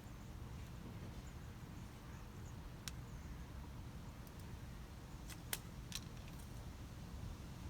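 A few short sharp clicks, one about three seconds in and a quick cluster of three a little later, as sprinkler valve solenoid wires and their connectors are handled, over a steady low background rumble.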